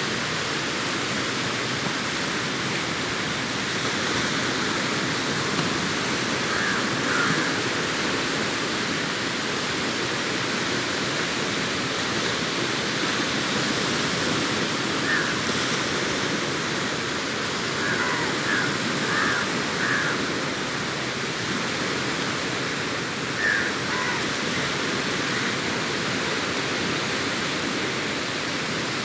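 Sea surf breaking and washing up a beach: a steady rush of waves that swells slightly in loudness now and then.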